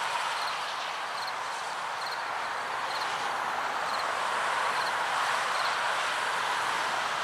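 Freight cars of a grain train rolling past: a steady rush of steel wheels on rail, with a faint regular ticking about twice a second.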